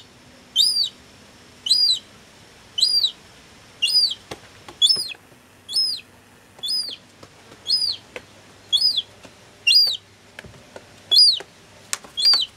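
A young gull chick peeping over and over, short high calls that rise and fall, about one a second, with a few faint knocks in between.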